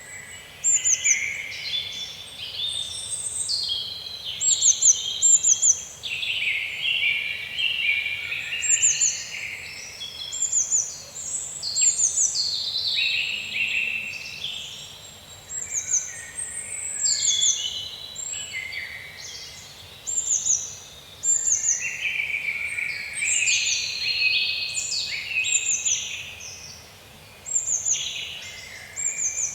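Several songbirds chirping and singing together, a dense run of quick high chirps and short downward-sweeping notes that keeps going with brief gaps.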